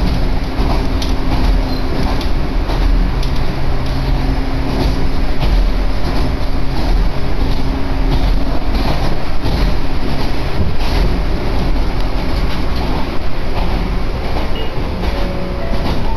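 Inside the cabin of a moving Echizen Railway electric train: a steady rumble of wheels on the track with a low hum and scattered clicks.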